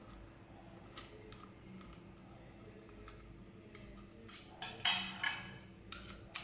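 Scattered light clicks and knocks of small hard objects being handled, with a denser run of louder clicks and rattles about four and a half to five and a half seconds in, over a faint steady low hum.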